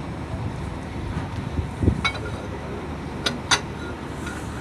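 Steady background rumble with a dull knock about two seconds in, then a few sharp metal clinks of tools on truck wheel-hub parts.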